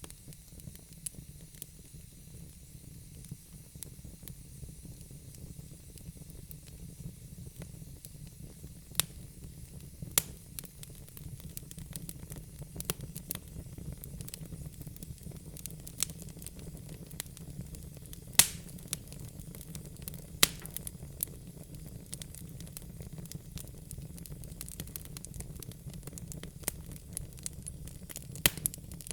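Wood fire burning in a fireplace: a steady low rumble of the flames with a faint hiss, broken by sharp crackles and pops from the burning logs, a few louder snaps scattered through.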